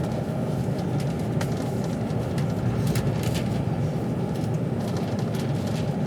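Steady rumble and rush of a passenger train running at speed, heard from inside the carriage, with faint scattered ticks over it.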